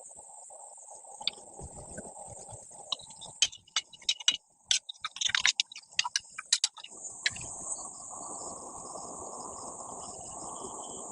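Insects chirping in a steady high trill, with a flurry of sharp clicks and knocks in the middle. A steady low rushing noise sets in about seven seconds in.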